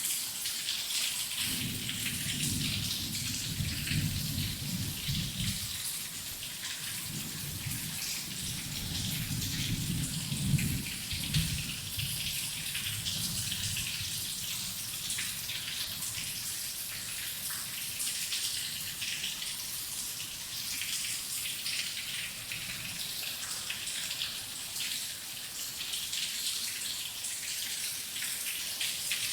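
Heavy rain falling steadily, with a low rumble of thunder through roughly the first twelve seconds that then fades.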